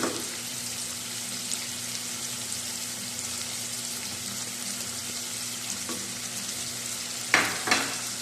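Chicken pieces sizzling as they fry in hot oil with cumin and salt, with two sharp knocks of a stirring spoon against the pan near the end.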